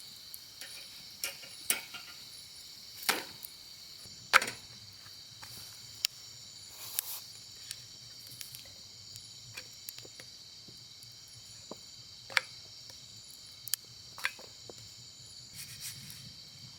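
Crickets chirring steadily, with a dozen or so sharp clicks and pops at irregular moments, the loudest about 3 and 4.5 seconds in.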